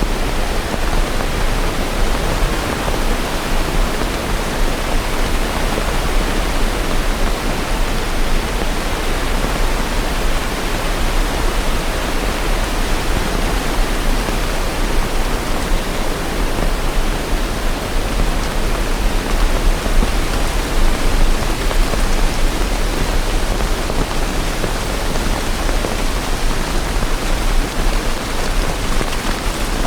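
Steady rain, a dense, even hiss with no separate drops or thunder standing out, over a steady low rumble.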